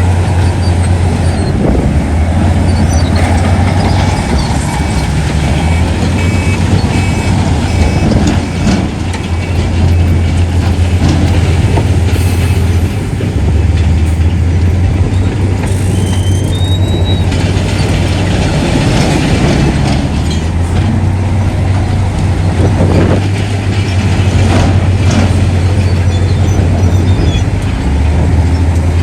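Heavy diesel construction machinery running steadily and loudly, the low engine note easing off and picking up again several times, with a row of short high beeps a few seconds in.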